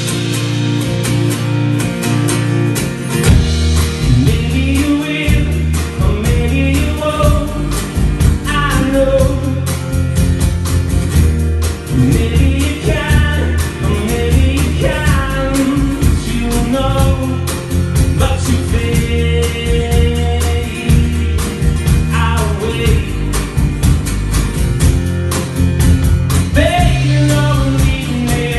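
Rock song playing, with guitar and a singing voice.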